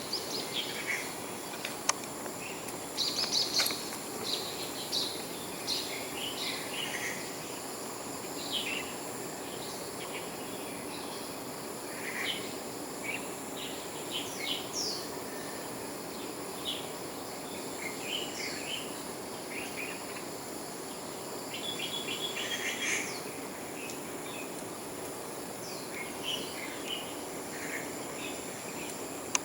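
Many birds chirping, short calls scattered and overlapping, over a steady high insect drone and a low outdoor hum. A sharp click comes about two seconds in.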